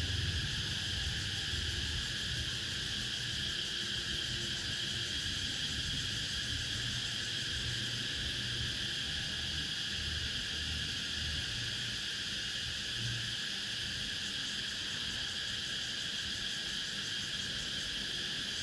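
Cicadas buzzing in a steady, unbroken drone. A faint, uneven low rumble comes and goes underneath.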